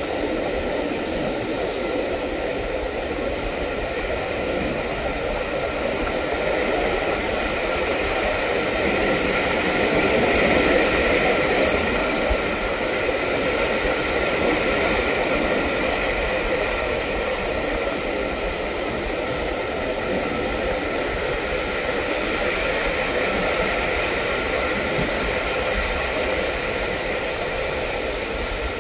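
Train running along the track: a steady rumble and rush of wheels on rail, swelling a little about ten seconds in.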